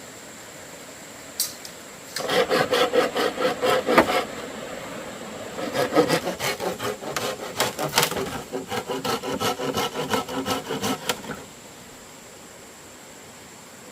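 A blade working bamboo in quick, even rasping strokes, in two spells: a short one about two seconds in, then a longer one after a brief pause. A single sharp click comes just before the first spell.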